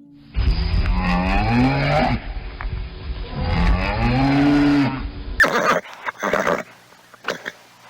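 A cow mooing twice, each a long call rising then falling in pitch. Several short, sharp sounds follow in the last couple of seconds.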